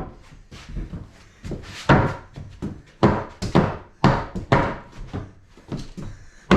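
Repeated heavy thunks against a wooden subfloor sheet, about two a second at an uneven beat, as the panel is knocked into place to close its joint with the next sheet.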